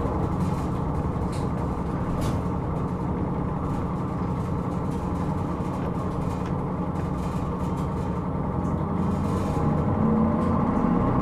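Interior running sound of a Hino Rainbow II (SDG-KR290J1) non-step route bus under way: a steady engine and road hum that grows slightly louder near the end.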